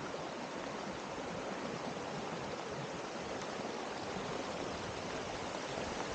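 Swollen creek in flood, rushing water as a steady, even noise.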